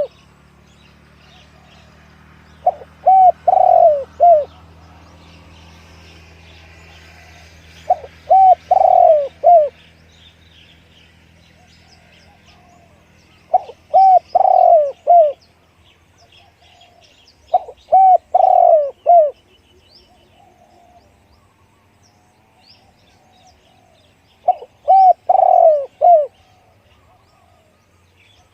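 Spotted dove cooing: five phrases of a few notes each, about one every five seconds. Faint chirps of small birds sound between the phrases.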